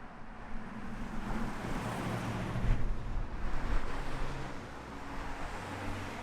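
Road traffic: a vehicle going by, swelling about two to three seconds in.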